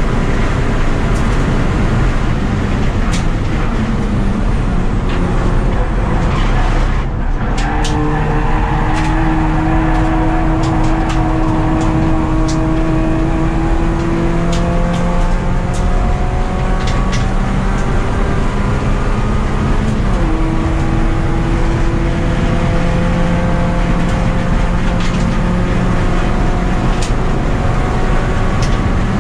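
Mazda 2 race car's four-cylinder engine at full throttle, heard from inside the stripped cabin: the revs climb steadily through each gear and drop sharply at the upshifts, about a quarter and two-thirds of the way in. Scattered sharp clicks and knocks sound over it.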